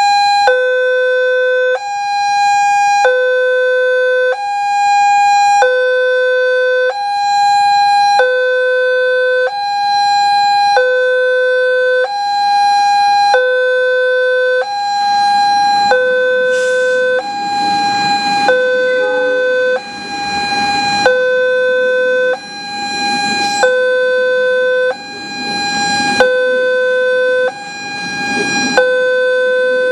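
Railway level-crossing warning alarm sounding a two-tone signal, a lower and a higher note alternating evenly at about one change every second and a bit, warning that a train is approaching. A low rumble joins from about halfway through.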